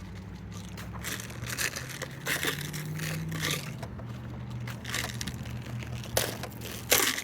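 Footsteps crunching underfoot at a walking pace, about one step every three-quarters of a second, over a steady low hum.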